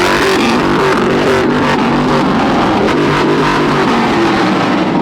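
Pickup truck engine revved hard and held at high revs, loud and continuous with a wavering pitch.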